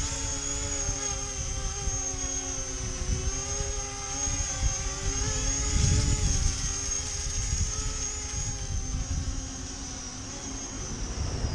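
E-flite Convergence VTOL's electric motors and propellers whining steadily in a hover, the pitch wavering as the motors speed up and slow down to hold the model against gusty wind. Wind rumbles on the microphone underneath.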